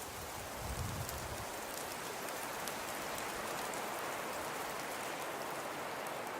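Fireplace fire crackling: a steady hiss with many small scattered pops, and a brief low rumble about a second in.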